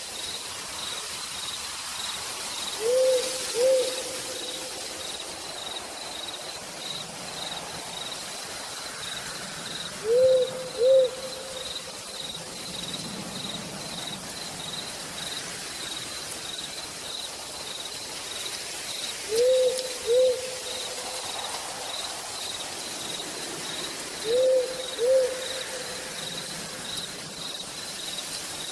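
Night forest ambience: an owl gives a double hoot four times, over a cricket chirping steadily in an even pulse and the hiss of steady rain.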